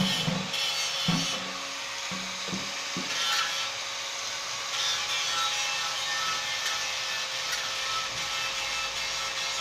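Steady abrasive rubbing and scraping, with a few knocks in the first three seconds.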